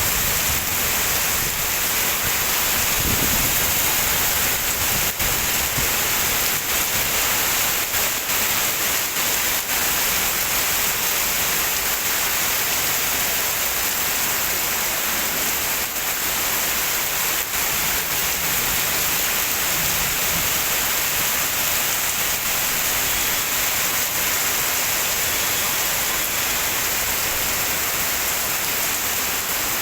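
Heavy downpour of rain: a steady, loud, unbroken hiss.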